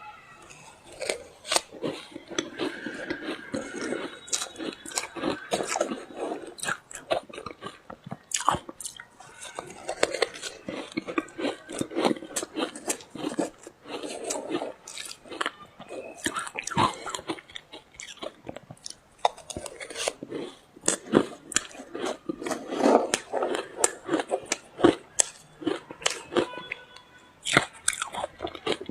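Ice being bitten and chewed close to the microphone: a dense run of crisp crackling crunches, with clusters of louder bites every second or two.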